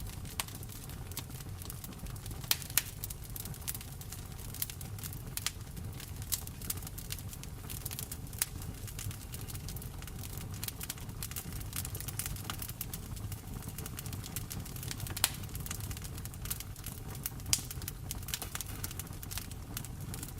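Wood fire in a fireplace crackling with frequent irregular pops, a few of them sharp and loud, over the steady hiss of falling rain and a low rumble.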